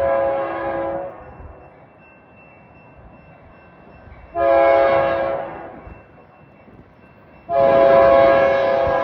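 Locomotive air horn sounding several tones at once, in blasts: a long blast ending about a second in, a short blast in the middle, and another long blast starting near the end. The pattern fits the long-long-short-long grade-crossing signal. The approaching train rumbles between the blasts.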